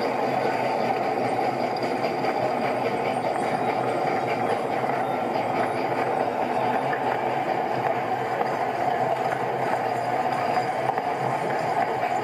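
Steady mechanical running noise with a light rattle, even in level throughout.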